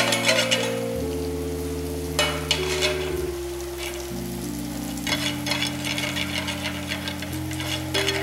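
Mustard seeds crackling and spluttering in hot refined oil in a frying pan as they are tempered, in three bursts of rapid crackle: at the start, about two seconds in, and again from about five seconds in until near the end. Soft background music with held notes plays underneath.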